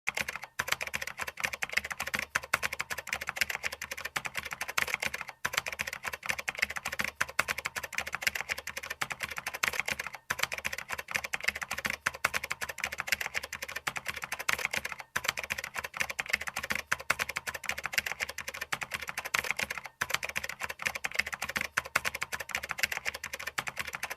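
Rapid computer keyboard typing, a dense run of clicks broken by short pauses about every five seconds.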